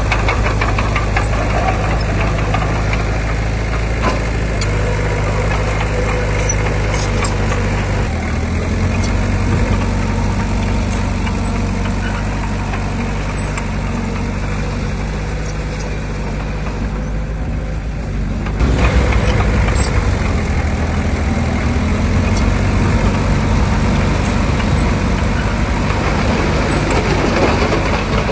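Diesel engine of heavy earthmoving machinery running steadily, its pitch shifting about eight seconds in. The higher sound drops away briefly a little past halfway, then the machine comes back louder just before the nineteen-second mark.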